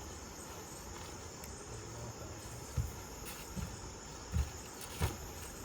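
A steady, high-pitched chorus of insects, crickets by their sound, with four soft low thumps in the second half.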